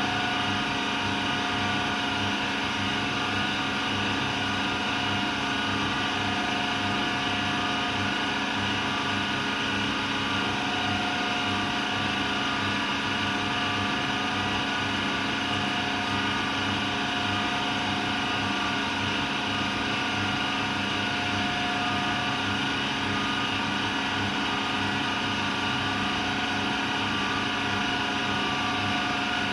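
AEG Lavamat Turbo washer-dryer running steadily late in its wash-and-dry programme, in the drying stage: a constant motor and fan hum with a steady whine over it.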